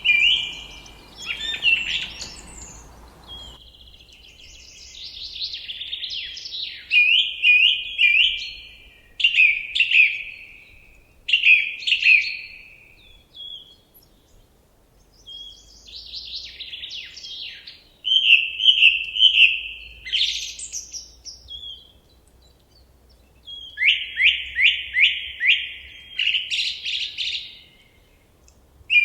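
A songbird singing phrases of quickly repeated whistled notes and trills, with short pauses between phrases; near the end comes a fast run of falling notes. A soft hiss under the song cuts off about three seconds in.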